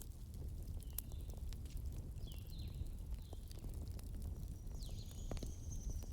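Wood fire burning in a fireplace: irregular sharp crackles and pops over a steady low rumble of flame. Faint short high chirps recur throughout, with a thin high whistle near the end.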